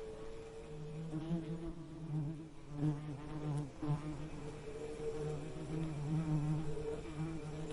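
Bees buzzing: a continuous low drone that wavers slightly in pitch and swells and fades in loudness.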